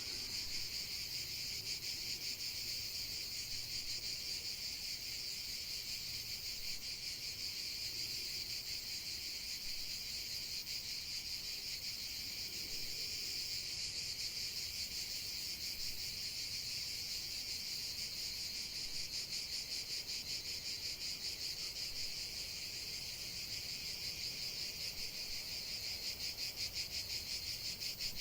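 Steady chorus of night insects, such as crickets, making a high, rapidly pulsing trill.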